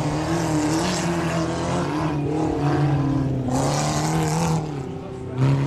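Autocross car engines revving hard as the cars race on a dirt track, the engine note rising and falling repeatedly with the throttle. A sudden louder burst of engine comes near the end.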